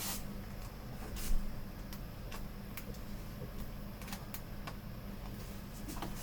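Scattered light clicks and taps of the monitor's plastic clips and casing being pressed back into place, with one louder knock just over a second in.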